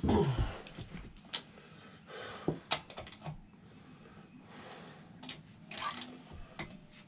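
Scattered clicks and knocks of hand tools and parts being handled while a motorcycle's rear wheel is taken apart.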